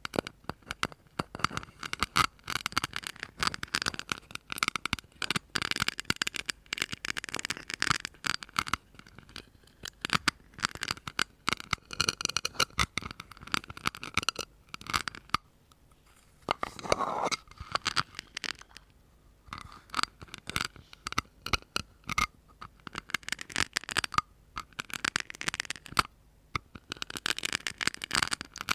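Close-miked ASMR tapping and scratching: rapid runs of sharp taps and scratches in clusters, broken by short pauses, with a longer scrape that rings a little about two-thirds of the way through.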